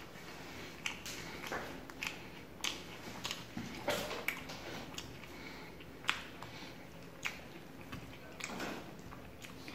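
Close-up eating sounds: chewing with sharp, wet mouth clicks about once a second, as paratha and rajma curry are eaten by hand.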